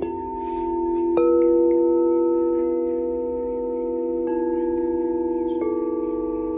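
Singing bowls struck one after another: four strikes, at the start and about one, four and five and a half seconds in. Each adds a new ringing tone that sustains over the still-ringing earlier bowls.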